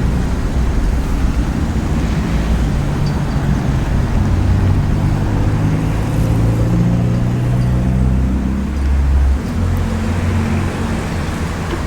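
A car engine running under acceleration, its pitch climbing for several seconds and then dropping suddenly about nine seconds in, as at a gear change, with steady road noise underneath.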